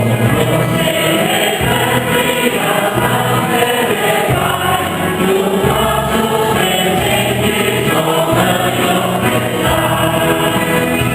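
Church choir singing a Mass hymn, sustained and continuous.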